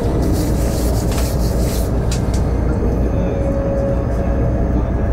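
Passenger train running along the track, heard from inside the carriage: a steady low rumble, with a brief rise of hiss during the first two seconds.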